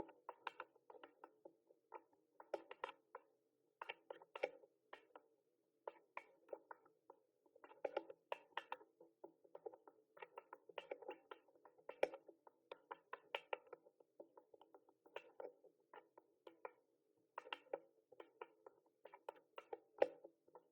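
Typing on a mechanical keyboard: quick, irregular key clicks in bursts with short pauses between them.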